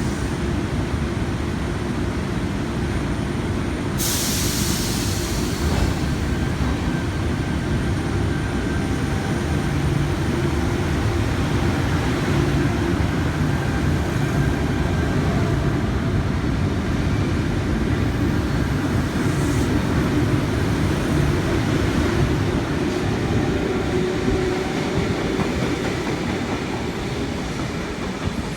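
Sydney Trains C-set double-deck electric train running at an underground station platform, a steady rumble with faint motor tones. A short burst of air hiss comes about four seconds in, and the sound eases off near the end.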